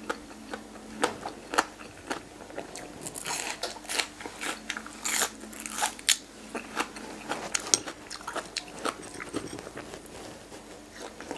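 Close-up chewing of crunchy food, boiled pig ear and raw greens dipped in chili sauce, with many irregular crisp crunches between the teeth.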